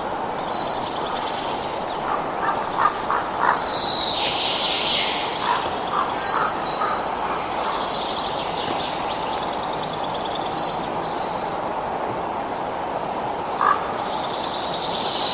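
Songbirds chirping: short high calls repeat every couple of seconds, and a longer warbling song comes about 4 s in and again near the end. Underneath runs a steady rushing background noise.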